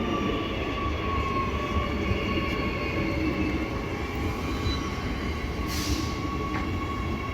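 Transperth B-series electric train coming into the platform: a steady rumble with a thin, steady high whine, and a brief hiss about six seconds in.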